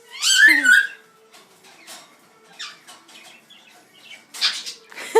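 Pet parrots calling: one loud, high call about half a second in, then softer scattered chirps and clicks, and a short harsh call near the end.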